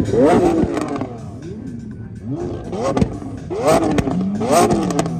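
A car engine revved in a series of short, sharp blips, each rising quickly in pitch and dropping back, with music underneath.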